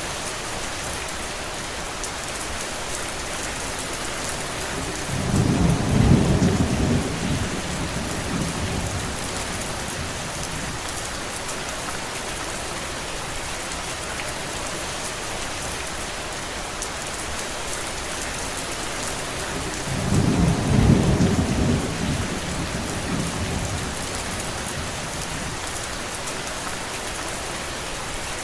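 Steady rain, with two low rumbles of thunder about five and twenty seconds in, each lasting a couple of seconds.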